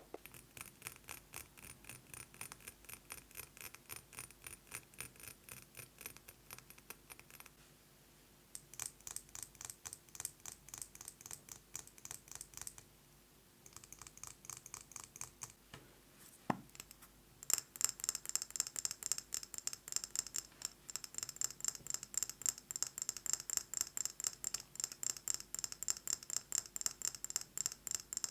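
Rapid fingernail tapping on a series of objects, broken twice by short pauses. About 17 seconds in, after a single knock, the tapping moves onto a glass jar holding a candle and takes on a bright, ringing clink.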